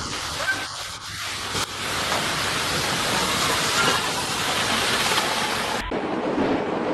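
Storm noise from a typhoon: a loud, even hiss of wind and rain. It changes abruptly near the end to a deeper, rumbling wind noise.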